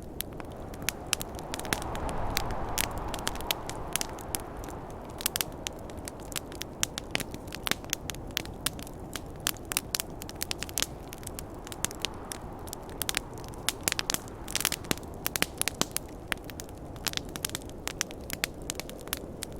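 Wood campfire crackling, with frequent sharp pops and snaps over a steady low rush of snowstorm wind that swells about two seconds in.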